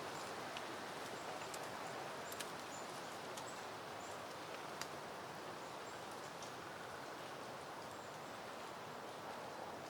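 Soft steady wind rustling through peony plants, with faint scattered high ticks and short chirps over it.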